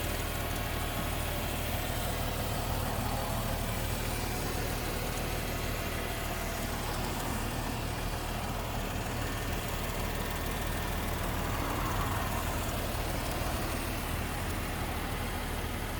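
Subaru Legacy Touring Wagon 3.0R's flat-six engine idling steadily through an aftermarket exhaust with a Wangan muffler and Kakimoto mid-pipe.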